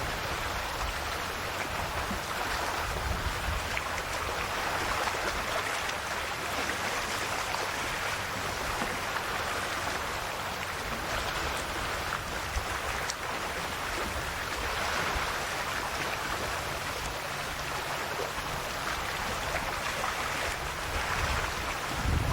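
Calm sea waves washing and fizzing against the shore: a steady hiss that swells gently every several seconds.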